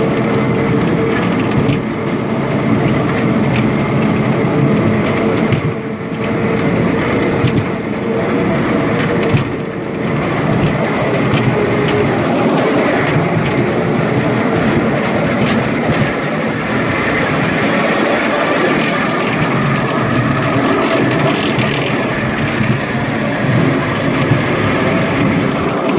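A small children's ride-on train running on its track, with a continuous rattle of wheels and cars.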